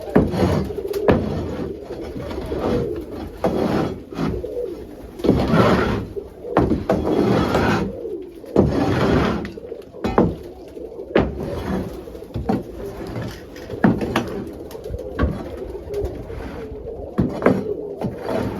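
Domestic pigeons cooing in a loft, with frequent sharp knocks and short scraping or rustling bursts from cleaning work among them.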